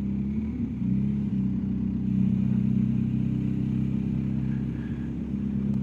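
BMW R1250GS Adventure's boxer-twin engine running steadily while riding, getting a little louder about a second in and again at about two seconds.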